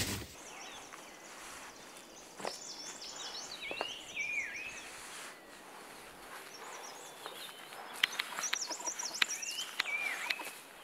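Bird song: two similar phrases of whistled, sliding notes, the first about two seconds in and the second about seven seconds in, each ending in a falling note. A few sharp clicks or knocks come near the end.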